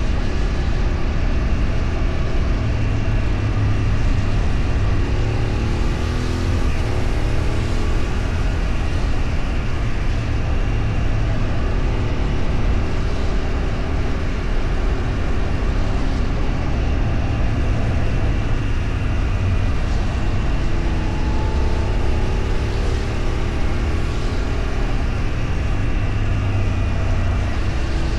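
A vehicle's engine running while on the move over steady road and wind noise, its pitch rising as it speeds up about six seconds in, again past twenty seconds, and near the end.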